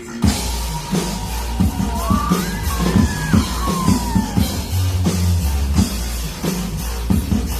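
A drum kit played in a rock beat over a rock backing track, with a sliding lead line about two to four seconds in.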